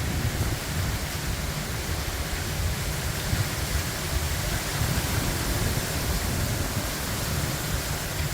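Strong tropical-storm wind gusting through bamboo and trees, a steady rushing with heavy wind rumble on the microphone.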